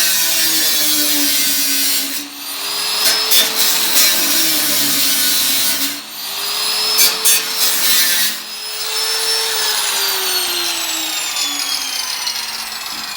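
Handheld power tool working the sheet steel of an 18-litre can, with a harsh hiss of metal. Its motor whine sags in pitch under load and picks back up twice, then drops slowly through a long final pass.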